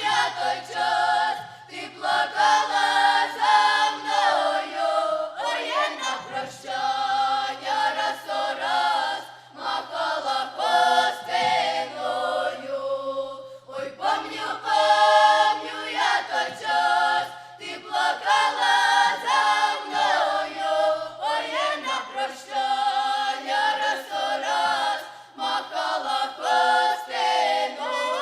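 Children's folk vocal ensemble singing together in a choir, in phrases with short breaks between them.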